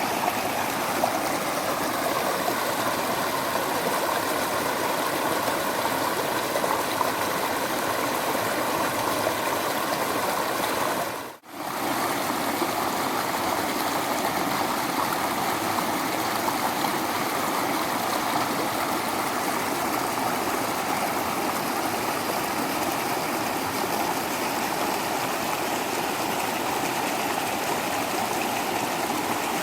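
Waterfall water rushing and splashing steadily, a constant rush of falling water. It drops out briefly a little over a third of the way through, then resumes unchanged.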